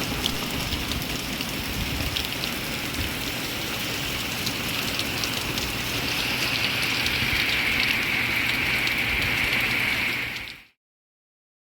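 Steady rain falling, a dense patter of small drops. It fades out near the end.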